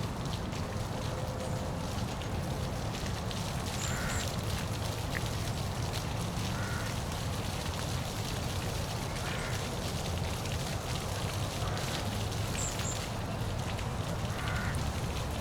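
Waterfall rushing steadily, with a few short bird calls over it.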